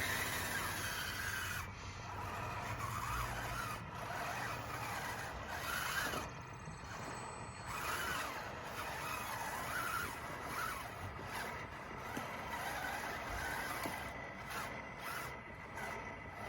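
Radio-controlled model bulldozer working: its electric drive motors and gearboxes whine, rising and falling in pitch every second or two with the throttle, over a steady scraping hiss.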